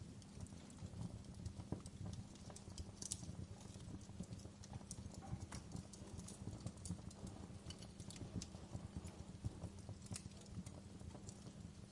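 Wood fire crackling in a fireplace: irregular pops and snaps of uneven loudness over a low, steady rumble of the flames.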